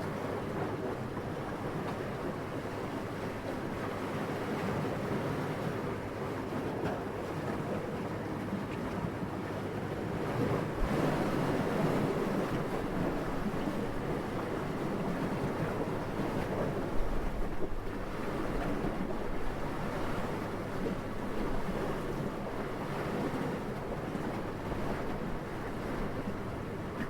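Wind blowing as a steady rushing noise, swelling and easing in slow gusts, loudest a little before the middle.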